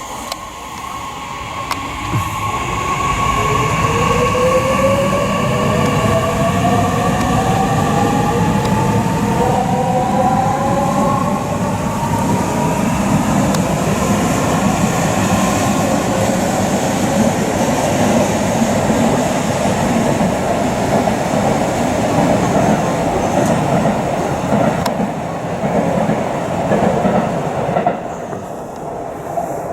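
An electric train pulls away. Its traction motors give a whine of several tones that rise in pitch as it speeds up, over the loud rumble and rattle of the wheels and cars going past.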